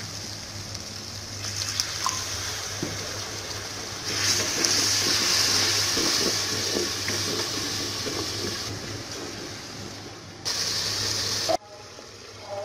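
Onion-tomato masala hissing and sizzling in hot oil in an aluminium pot as water goes in. The sizzle jumps louder about four seconds in and slowly dies down, then flares briefly again near the end before cutting off, over a low steady hum.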